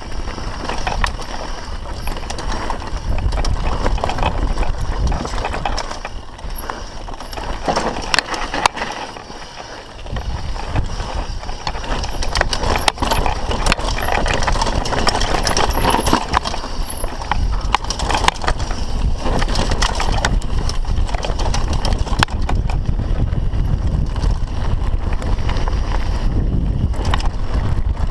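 Mountain bike riding down a rough bike-park trail: tyres on dirt and rocks with constant rattling and clattering from the bike, and a low rumble of wind on the microphone. It eases off briefly about a third of the way in, then picks up again.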